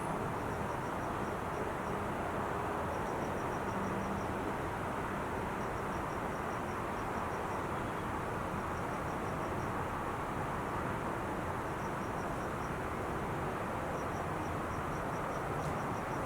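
Steady rush of freeway traffic on Interstate 5, with a high, fast chirping in short runs of several pips repeating every second or two.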